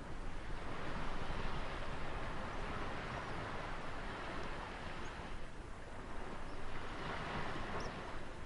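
Ocean waves washing in, a steady rush of surf that swells twice, once about a second in and again near the end, over a low rumble.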